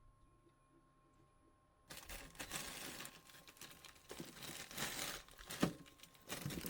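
Plastic packaging crinkling and crackling as it is handled, starting suddenly about two seconds in, after a faint steady hum.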